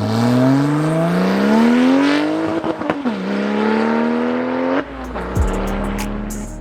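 Porsche 996 911 Turbo's twin-turbo flat-six, on a straight-piped titanium X-pipe exhaust, accelerating hard: the engine note climbs, breaks for a gear change about three seconds in, then climbs again. Music with deep bass thumps cuts in near the end.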